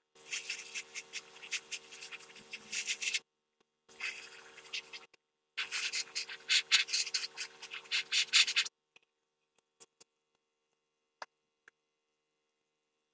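Scraping and rubbing on a part, like sanding or scrubbing during restoration work, in three stretches over a steady low hum, then a few faint clicks.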